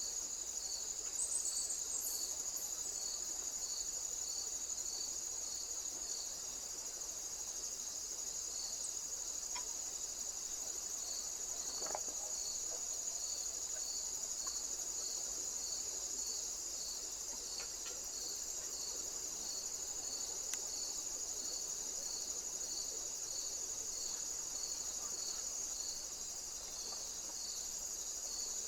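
Insects chirping: a steady high-pitched buzz with a second insect's chirp pulsing evenly, a little more than once a second.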